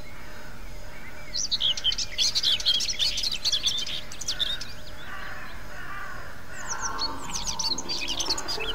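Dense flurries of rapid, high bird chirps from British bird calls, edited for a soundscape. They come in from about a second and a half in to about four and a half seconds, then again near the end, over a steady bed of faint held tones.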